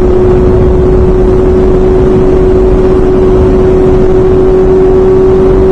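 Honda CBR600 F4i's inline-four engine running at a steady speed, its note holding one pitch, under loud wind rush at highway speed.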